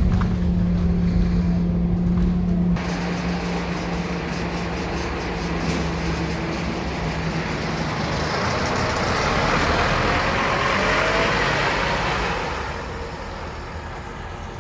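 Scania K230UB diesel bus running: a steady engine hum gives way about three seconds in to a broad rush of engine and road noise as the bus drives on. The noise builds, then fades near the end.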